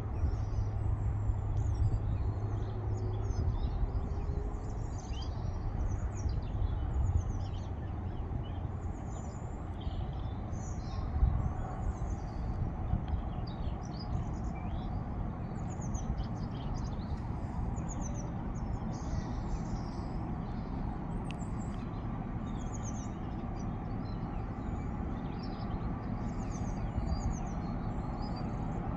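Small birds chirping and singing over a steady low rumble from a Class 60 diesel-electric locomotive hauling a heavy freight train.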